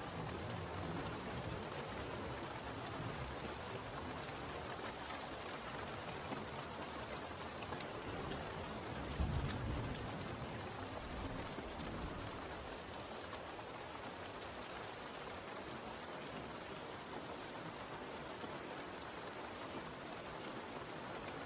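Steady rain falling, with a brief low rumble about nine seconds in.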